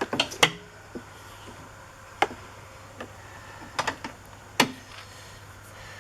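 Irregular sharp plastic clicks and knocks from hand work on a car side-mirror assembly. A quick cluster comes at the start, then single clicks about a second apart, with a double near the four-second mark.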